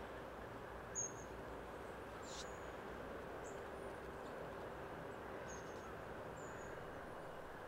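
Faint background ambience: a steady low hum and hiss with short high bird chirps every second or so, the first slightly louder about a second in.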